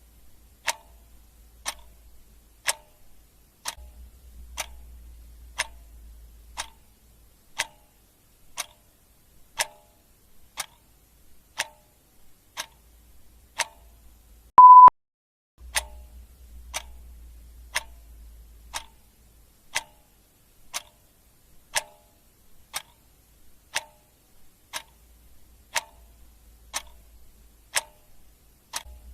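Clock ticking steadily, one tick a second, with a single short, high beep about halfway through.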